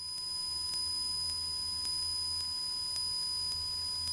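Cessna 172 cockpit heard through the headset intercom: a steady low hum from the engine, muffled, with thin steady electronic whine tones and hiss on the audio line.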